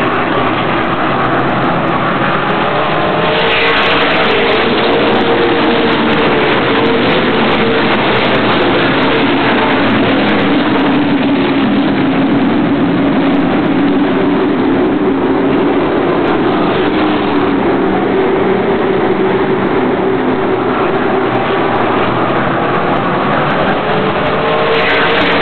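Race car engines running hard as cars lap the circuit. The sound is continuous and loud, with engine notes sliding up and down as cars approach and pass, and a surge of rushing noise about three seconds in and again near the end.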